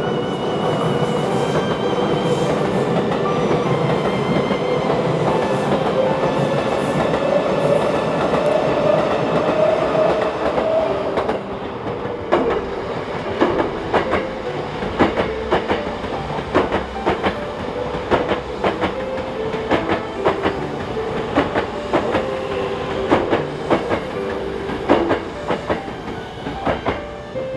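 Hankyu electric train running by: a steady running noise with a motor tone rising in pitch for about the first ten seconds, then, from about twelve seconds in, a fast run of wheel clicks over the rail joints.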